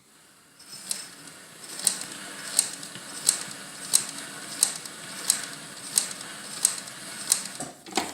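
Leather patch sewing machine stitching slowly, with a sharp click at each stitch, about one and a half a second, over a faint low hum.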